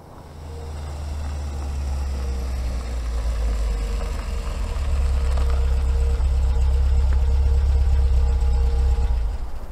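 BMW E30's engine idling steadily. It fades in over the first couple of seconds and drops away near the end.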